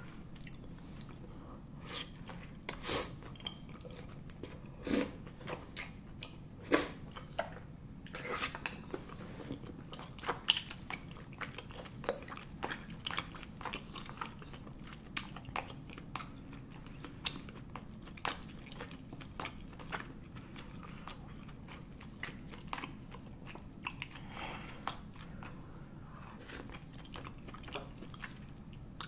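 A person chewing chewy Korean rice cakes in spicy sauce (tteokbokki), with many irregular soft clicks and smacks of the mouth.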